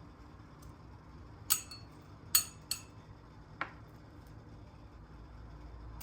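Kitchenware clinking: four sharp clinks of metal or glass, each with a short ring, two of them close together near the middle and the last one softer.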